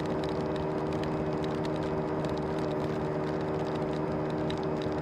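A motor scooter's small engine running at a steady, unchanging speed, with scattered light ticks of rain striking the rider's gear.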